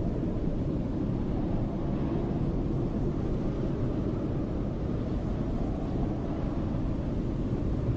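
Snowstorm wind ambience: a steady, deep rushing roar of wind.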